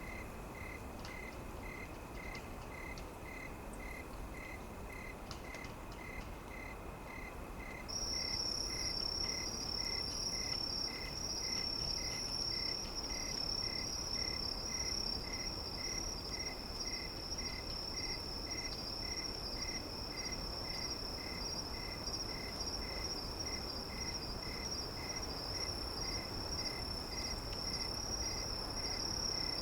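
Insects chirping: an even, high chirp repeating about one and a half times a second, joined about eight seconds in by a louder steady high trill, over a soft low hiss.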